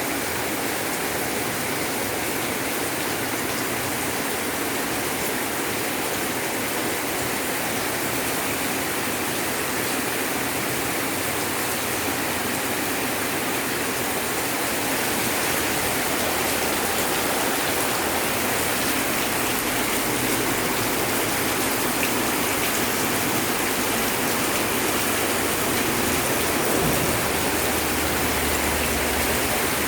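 Heavy rain pouring down with floodwater running, a dense steady hiss that grows a little louder about halfway through.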